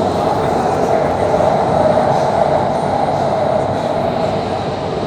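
Doha Metro train running underground, heard from inside the carriage: a steady, loud rumble with a held whine.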